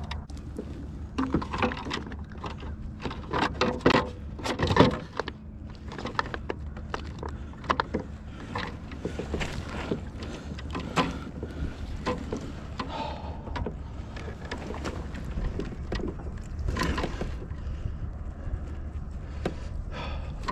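Irregular knocks, clicks and clatter of gear being handled aboard a fishing kayak, over a steady low hum. The loudest knocks come about four to five seconds in.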